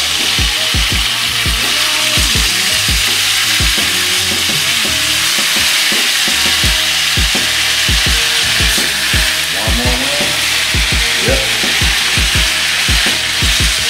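Rub-seasoned chicken wings frying in hot oil in a skillet over high heat on a gas burner: a steady, loud sizzle with scattered pops.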